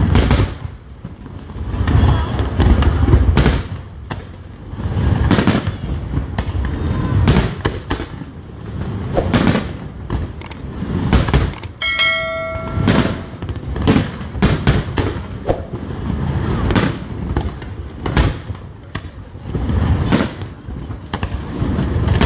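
Aerial fireworks bursting one after another: sharp cracks and deep rolling booms, with a brief steady whistle-like tone about halfway through.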